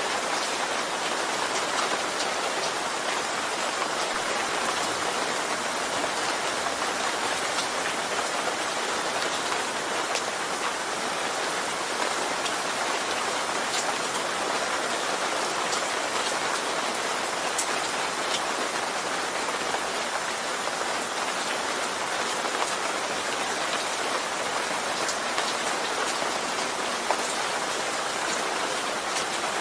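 Steady rain falling: an even hiss with scattered ticks of single drops striking a surface.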